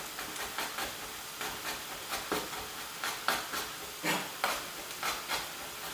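Onions sizzling steadily in oil and butter in a frying pan, with irregular sharp taps of a knife on a chopping board as ginger is chopped, about two a second.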